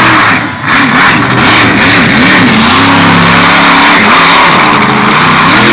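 Monster truck engine, very loud, revving in quick blips about three times a second, then held at high revs for about a second before dropping and blipping again near the end.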